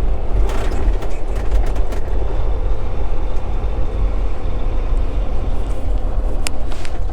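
Semi-truck diesel engine running at low speed, a steady low rumble heard inside the cab, with a few scattered clicks and rattles.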